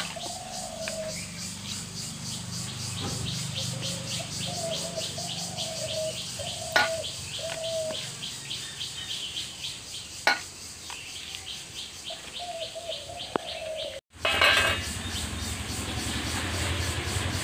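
Birds chirping in a fast, even run, with short wavering calls in between and a couple of sharp knocks. After a sudden cut near the end, a rustling of leaves being handled takes over.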